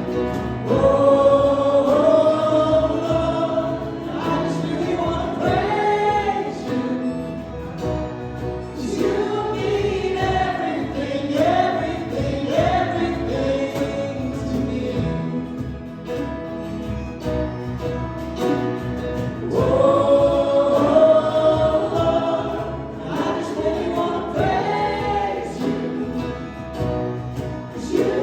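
Live worship band performing a gospel song: several voices singing a slow melody together over instrumental accompaniment, swelling louder twice.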